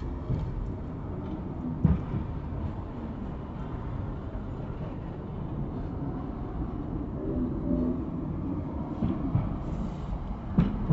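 Indian Railways passenger train running slowly along the track, heard from on board as a steady low rumble. There are two sharp knocks, about two seconds in and near the end.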